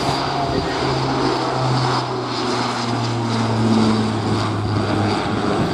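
Airbus A400M Atlas's four turboprop engines running, a loud propeller drone: a steady low hum under a broad rush of engine noise.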